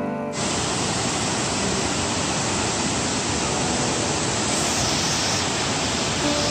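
Waterfall roaring, a steady rush of falling water that starts abruptly about a third of a second in.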